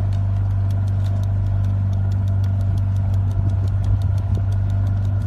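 A steady low motor hum with a quick, even ticking over it, cutting off abruptly just after the end.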